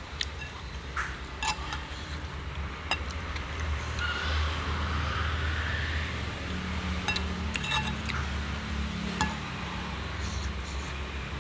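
A spoon clinking against a dish of shredded fruit salad about seven times as it is eaten, with chewing noises in the middle stretch and a steady low hum underneath.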